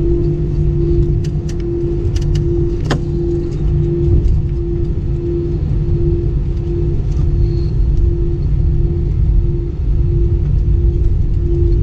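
Steady low rumble of a vehicle in motion, heard from inside, with a hum that pulses a little faster than once a second and a few light clicks about two to three seconds in.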